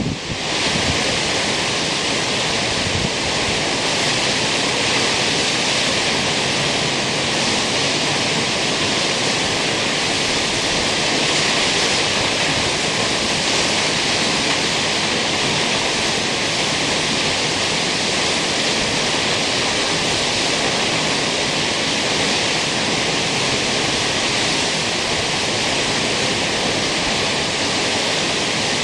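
The steady, even rush of Kegon Falls, a tall plunge waterfall, with falling water crashing constantly.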